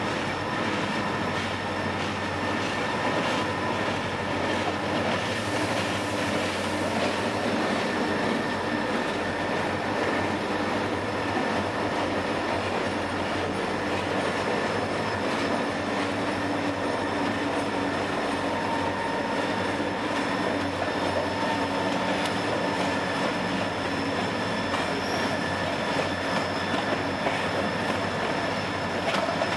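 Freight train with several diesel-electric locomotives passing close by at low speed: the diesel engines running, with steady wheel-on-rail rumble and clatter and a thin, steady high squeal from the wheels.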